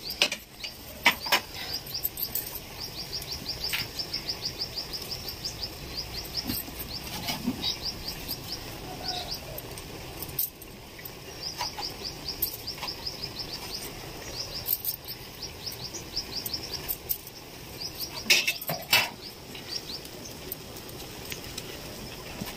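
A small bird chirping in long, fast runs of high repeated notes, several a second, pausing briefly about halfway through. A few sharp clicks or knocks cut in, the loudest near the end.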